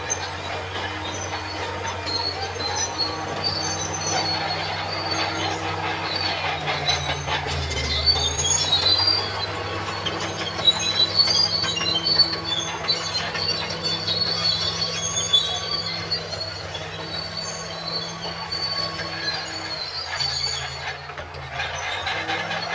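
Crawler bulldozer at work: its diesel engine runs steadily while the steel tracks give off repeated high squeals and clanks.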